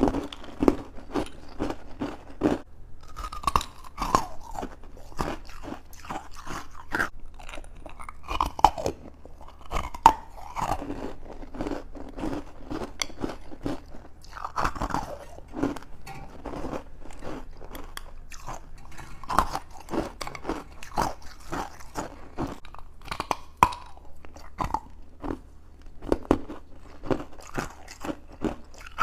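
Close-up chewing and crunching of juice-soaked freezer frost: a dense, irregular run of crisp crackles as the ice is bitten and ground between the teeth.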